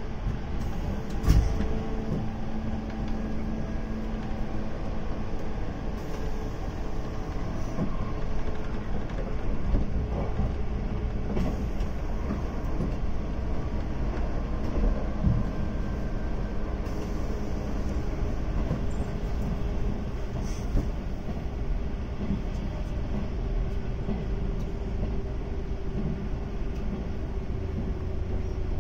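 JNR 185 series electric multiple unit running on the rails: a continuous rumble with faint steady tones, one of which slowly drops in pitch in the second half. There are occasional short knocks, the loudest about a second in.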